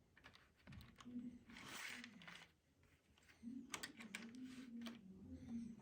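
Near silence: a few faint clicks from a plastic model locomotive being handled, with a faint murmuring voice in the background.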